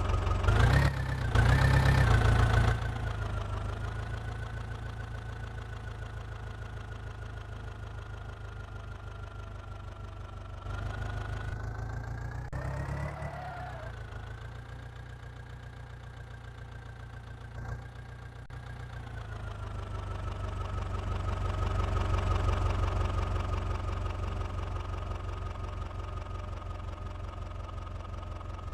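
Massey Ferguson 9500 DI tractor's diesel engine running steadily under a steady whine. It is loudest for the first two seconds or so, picks up briefly around the middle, and swells gradually later on.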